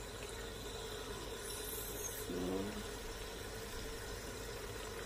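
Mutton, onion and tomato frying in oil in a stainless steel pressure cooker, a steady low sizzle, with a short pitched sound about two and a half seconds in.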